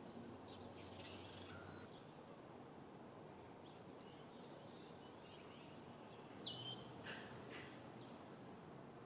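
Faint songbird chirps over a steady outdoor background hiss, with one clearer, falling call about six and a half seconds in.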